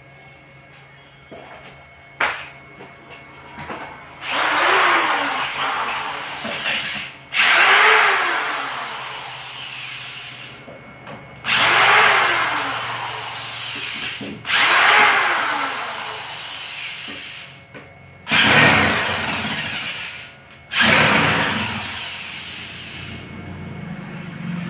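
Handheld electric power tool, drill-like, run in six short bursts. In each burst the motor speeds up and then winds down. There is a single sharp knock about two seconds in.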